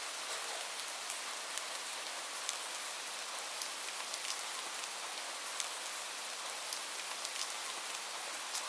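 Steady rain, an even hiss with many separate drops ticking sharply on a surface.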